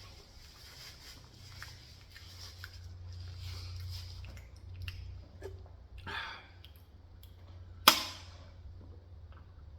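Close-up chewing and mouth sounds with small scattered clicks over a steady low hum. A sharp knock about 8 s in is the loudest sound.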